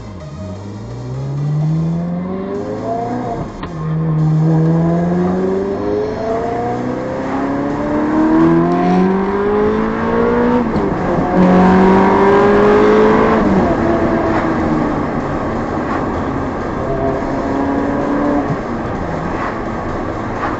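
Ferrari 360's V8 through a Tubi exhaust, accelerating hard through the gears: the engine pitch climbs, then drops back at each upshift, several times over.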